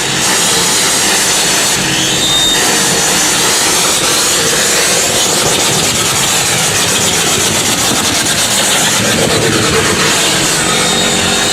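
Harsh noise music: a loud, unbroken wall of distorted noise across the whole range, with a sweeping, phasing wash in the highs.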